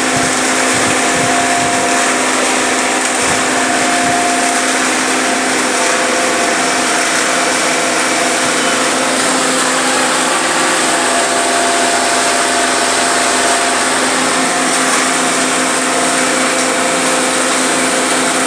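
Road construction machinery running steadily: a constant motor hum with a steady whine and a dense hiss over it, never stopping.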